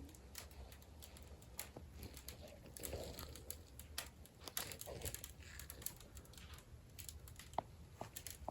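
Glazed clay tiles crackling as they are grouted: faint, irregular small clicks and ticks scattered throughout, over a low steady hum.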